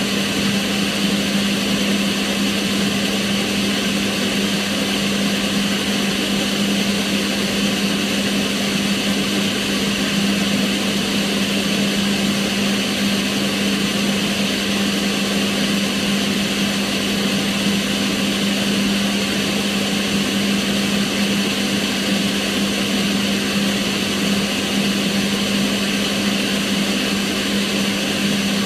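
Kitchen range hood's extractor fan running steadily: an even rush of air with a constant low hum.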